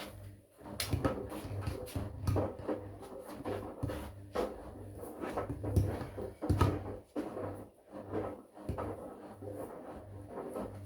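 Washing machine running a wash cycle: a low motor hum that pulses on and off, with irregular knocks and clunks from the turning drum and laundry.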